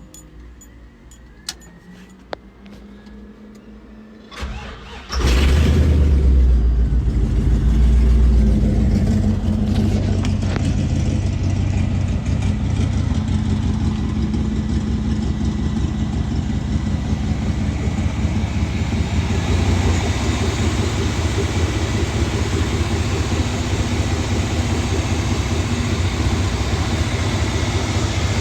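A few clicks, then the LS-swapped V8 in a 1963 Ford truck cranks briefly and starts about five seconds in. It runs fast at first, then settles into a steady idle.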